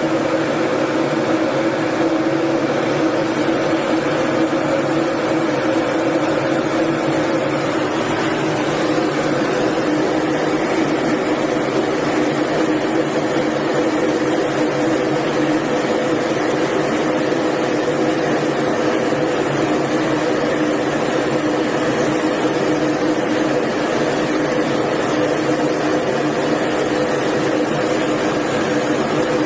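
A steady engine drone with a constant low hum, holding the same level and pitch throughout.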